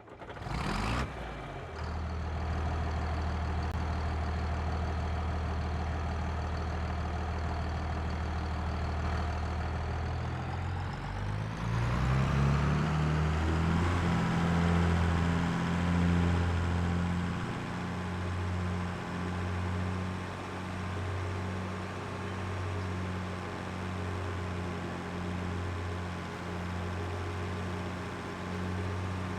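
Tractor engine comes in suddenly about a second in and runs steadily. Between about ten and fourteen seconds it revs up, then keeps running at the higher speed with a regular rise and fall in level.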